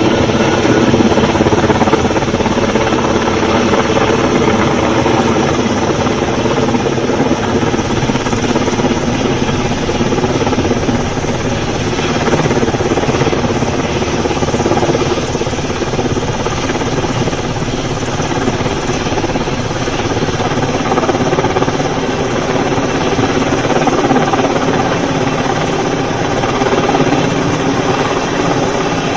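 Helicopter running close by, its engine and rotor making a loud, steady din that swells and eases only slightly.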